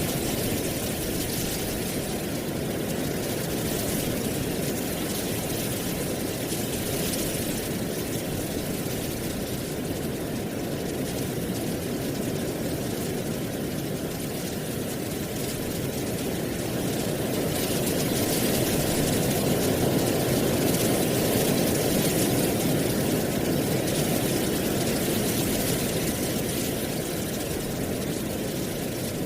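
Steady wind with a rustling of dry autumn leaves. The low rush swells a little past the middle, then eases.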